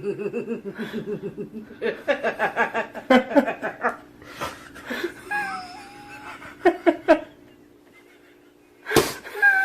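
A person laughing in quick, repeated bursts over the first few seconds. A few sharp knocks follow later, and there is a sudden loud sound near the end.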